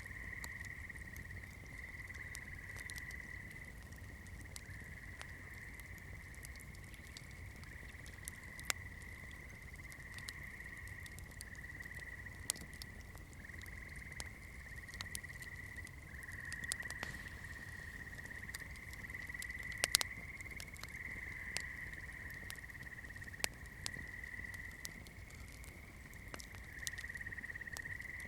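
Wood campfire crackling, with irregular sharp pops and snaps, the loudest about 20 seconds in. Under it runs a steady high-pitched trilling chorus, like night insects or frogs, and a low steady rumble.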